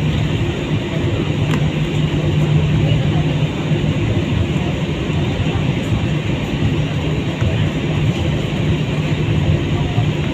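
Steady drone inside an airliner's cabin after landing: engine and air-conditioning noise with a constant low hum, unchanging throughout.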